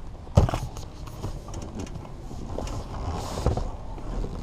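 A sharp thump about half a second in, then scattered clicks, creaks and rustling as a passenger climbs onto a motorcycle's pillion seat.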